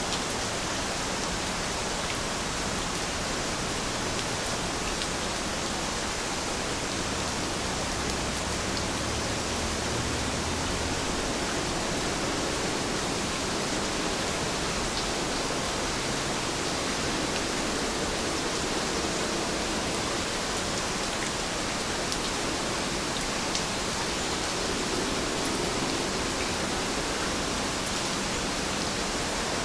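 Heavy rain falling steadily, a dense even hiss of many drops with faint scattered patters.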